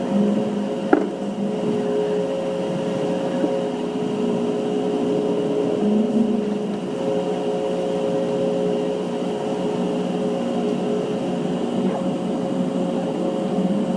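Steady hum and rumble inside a GO Transit bilevel passenger coach as the train moves, with one sharp click about a second in.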